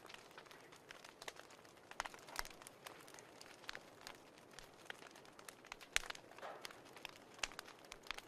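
Wood fire crackling in a fireplace: irregular sharp pops and snaps over a low steady hiss, a few louder pops about two seconds in and about six seconds in.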